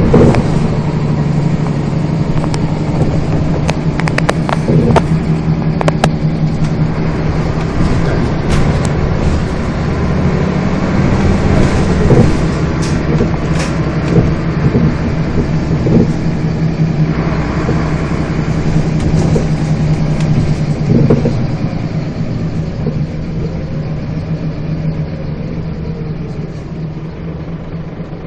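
Scania bus engine running on the road, heard from inside the bus, with rattles and knocks from the body and fittings. The engine gets quieter over the last several seconds.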